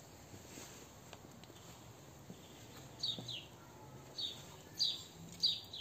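A small bird chirping: short, high notes that slide downward, repeated about every half second to second, starting about three seconds in, over a faint steady hiss.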